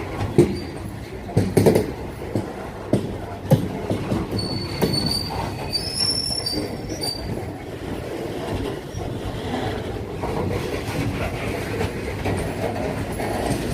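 Freight train wagons rolling past, their wheels knocking sharply several times in the first few seconds. A thin, high wheel squeal rises over the steady rumble from about four to seven seconds in.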